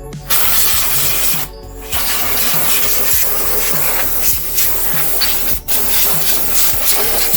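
Compressed air hissing steadily from an air-hose blow nozzle, cutting out briefly about a second and a half in, over background music with a steady beat.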